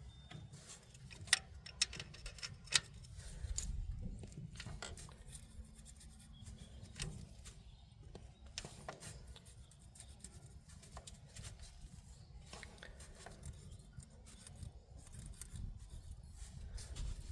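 Faint metallic clicks and scraping of hand tools on a stopped engine's valve train: a feeler gauge and wrench checking and adjusting rocker-arm valve clearance on an Allis-Chalmers inline six, set cold. A few sharp clicks stand out in the first three seconds.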